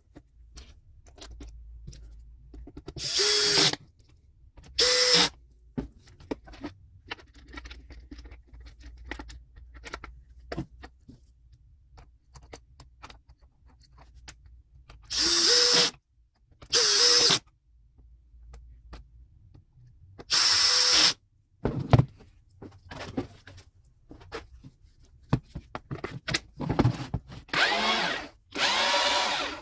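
GRUNDER 18V cordless chainsaw (GY2191) triggered in about six short bursts. Its electric motor whines up to speed and stops each time, and the last burst runs longest.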